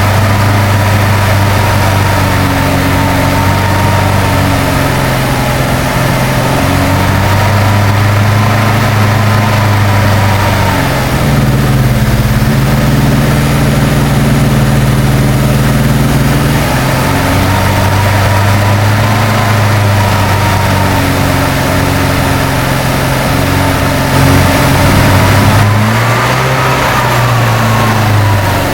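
Freshly rebuilt BMC A-series four-cylinder engine of a 1966 Morris Cooper S running at a high idle, its speed rising and falling in slow swells every several seconds: the idle is hunting, with a high idle that would not come down.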